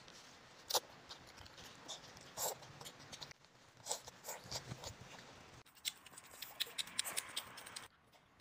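Faint, irregular clicks and taps of a small child eating, with a dense run of quick clicks about six to seven seconds in.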